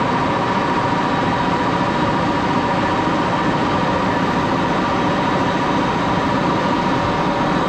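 Metal lathe running steadily, its motor and drive giving an even mechanical hum with a constant whine.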